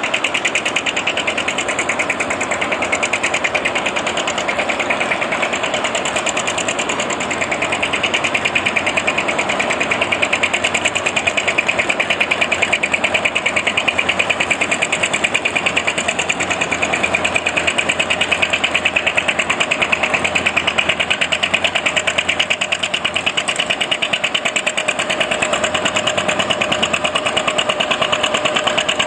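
An engine running steadily at an even speed, with a rapid regular beat and no revving.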